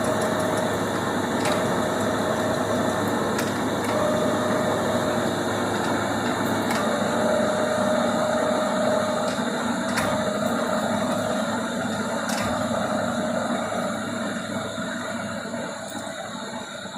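1974 Lodge & Shipley Superturn engine lathe running, its carriage driven on rapid traverse: a whine comes and goes about six times over steady gear noise, with sharp clicks from the levers between runs. The machine noise drops away near the end.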